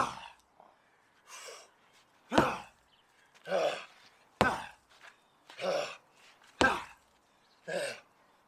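A 16 lb sledgehammer striking a rubber mat on the ground four times, about every two seconds, each strike a sharp thud. A hard exhale comes between the strikes.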